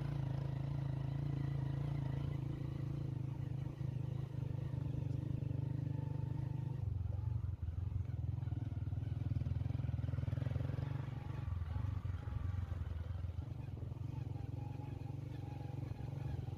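A vehicle engine running steadily, its low hum stepping down in pitch about seven seconds in.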